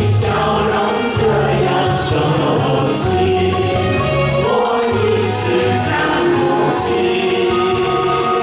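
A group of voices singing a Mandarin pop song together in unison over a recorded backing track, with a bass that pulses about once a second.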